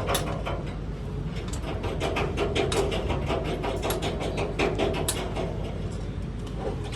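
Quick, irregular run of mechanical clicks and taps from tool work on metal, over a steady low hum.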